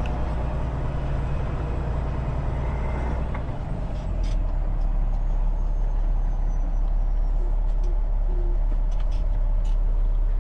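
Semi truck's diesel engine running steadily. About four seconds in its note changes and it gets a little louder, as when the truck is moved up.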